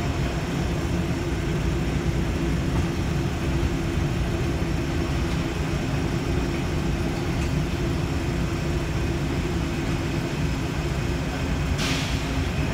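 Rubber-tyred automated airport train running steadily through a tunnel: a constant low rumble with a steady electric motor hum on top. A brief hiss sounds near the end.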